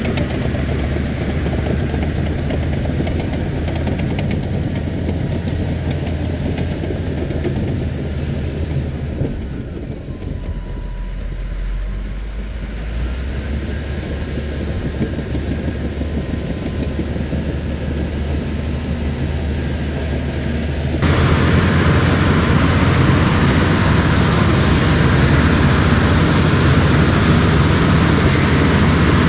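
Engine of an earth-moving machine running steadily while it pushes topsoil. The engine dips briefly about a third of the way in, then turns suddenly louder about two-thirds of the way through.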